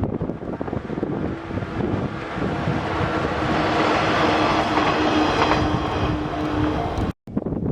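Five-car 115-series electric train running past, its noise swelling to a peak midway with a steady hum over it, then cutting off suddenly near the end.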